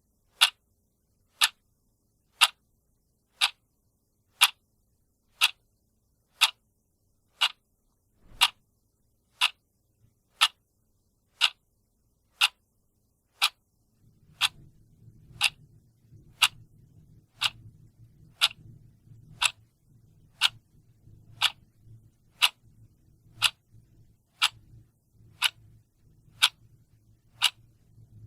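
A clock ticking steadily, one sharp tick a second. From about halfway through, a faint low hum sits under the ticks.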